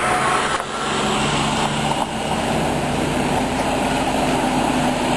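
Floodwater of an overflowing mountain creek rushing over its banks: a loud, steady roar with no break.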